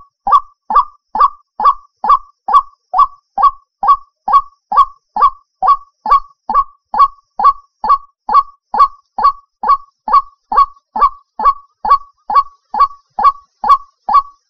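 White-breasted waterhen lure call: a short, loud honking note repeated steadily a little over twice a second.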